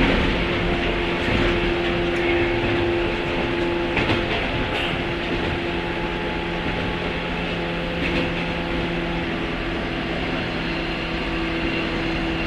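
Onboard running sound of a JR 103-series motor car (MoHa 102) with MT55 traction motors: a steady motor and gear hum at constant speed, with a few clacks as the wheels cross rail joints.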